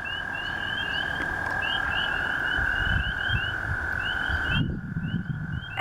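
Pond chorus of spring peepers giving short, rising peeps over the long, steady trill of American toads. The toad trill cuts off suddenly about four and a half seconds in, and the peeps carry on.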